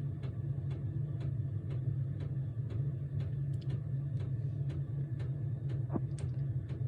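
Diesel air heater running after start-up, throttled down to its lowest setting: a steady low hum with its fuel pump ticking about three times a second.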